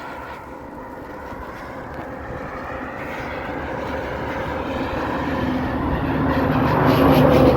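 Semi-trailer truck approaching on the highway and passing close by, its engine and tyre noise growing steadily louder to a peak near the end.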